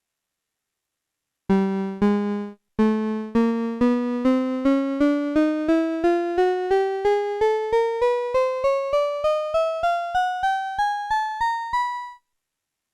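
Casio VL-Tone (VL-1) mini keyboard-synthesizer playing a buzzy electronic tone. Two lower notes come first, then a run of short notes, about three a second, climbing note by note through more than two octaves before it stops.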